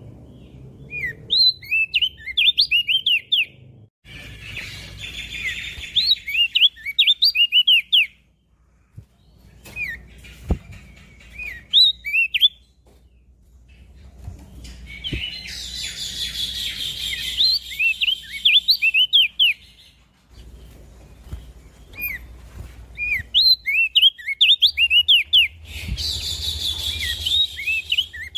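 Crested white-eye (opior jambul) singing: phrases of quick, high, sliding chirps, repeated every few seconds with short pauses between them.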